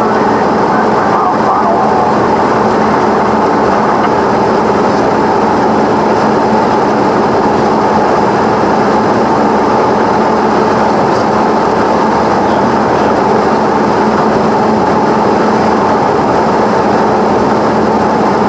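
Cessna 172's engine and propeller running steadily at a constant pitch, with a continuous drone.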